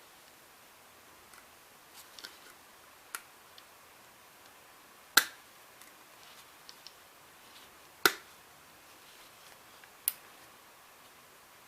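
Hard clicks and knocks of a Ramset 122MD powder-actuated tool's parts being handled during disassembly: lighter ticks early on, two loud sharp clicks about five and eight seconds in, and a third near ten seconds.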